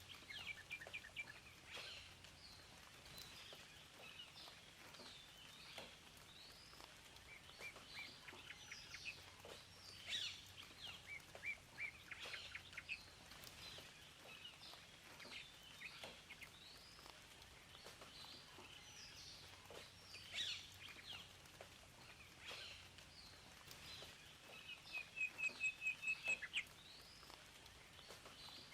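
Several songbirds chirping and calling in short, scattered phrases over a faint steady hiss, with a loud rapid run of repeated notes near the end.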